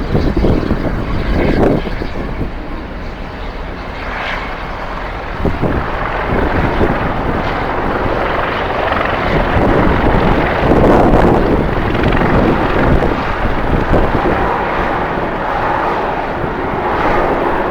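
Jet airliner's engines running, heard through strong wind buffeting the microphone; the sound grows louder about five seconds in.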